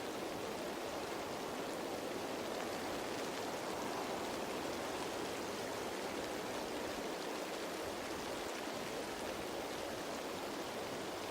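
Steady rain falling on leaves: an even wash of patter with no single drops standing out.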